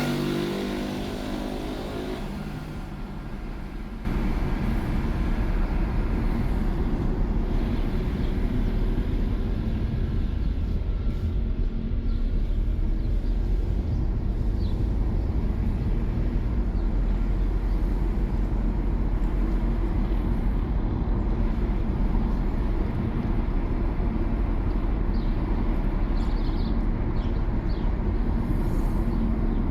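Steady low rumble of a car driving: road and engine noise, stepping up suddenly in loudness about four seconds in. Over the first two seconds a passing vehicle's engine note fades away.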